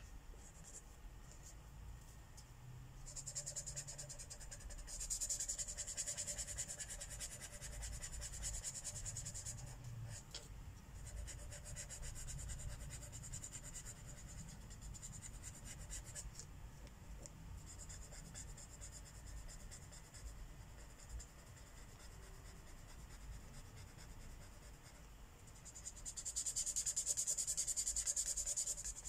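Marker tip rubbing across paper in quick back-and-forth coloring strokes, in stretches of a few seconds with short pauses between them. The strokes are loudest near the end.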